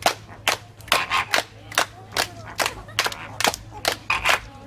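A quick, uneven series of sharp clicks, roughly three a second, over a low steady hum.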